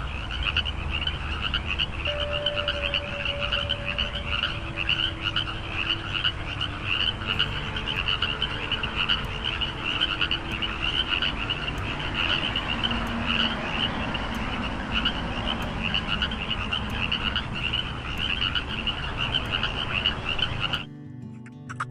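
A chorus of frogs calling, many rapid overlapping croaks running on without a break, until it cuts off abruptly shortly before the end.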